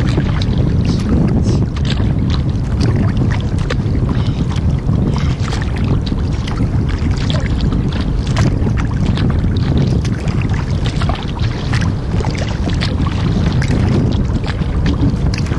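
Kayak being paddled on a river: irregular splashing and dripping of water from the paddle and along the hull, over a steady low rumble of wind on the microphone.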